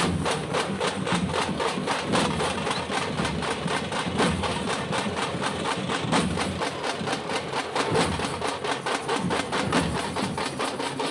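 Tamate frame drums beaten with sticks by a drumming group, keeping up a fast, even beat of sharp strokes.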